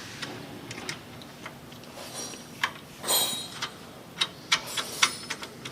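Irregular metallic clicks and clinks of hand tools and parts being worked on a car's front suspension and steering linkage, with a short scrape about three seconds in.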